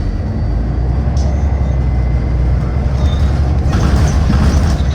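Inside a moving city bus: steady low engine and road rumble, with a brief hiss lasting about a second near the end.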